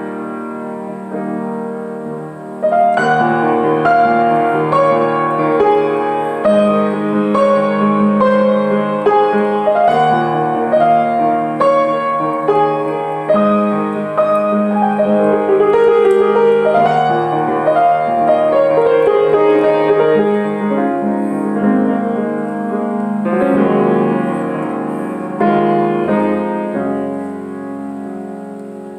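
Piano music: a melody over sustained chords, getting louder about three seconds in.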